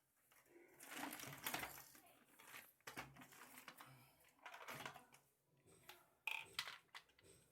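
Faint handling sounds of the vacuum cleaner's plastic parts: light clicks, knocks and rustling, with a sharper click about six seconds in.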